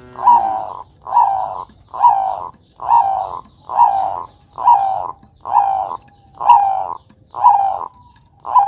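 Bangkok-type zebra dove (perkutut) cooing: a steady series of short coos, each falling in pitch, a little more than one a second.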